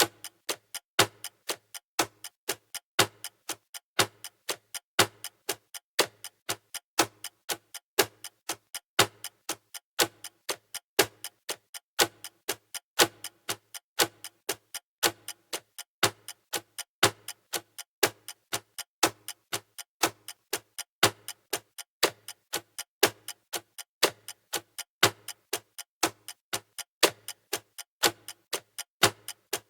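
Clock ticking sound effect marking a countdown timer: a steady tick-tock, about two ticks a second, every other tick louder.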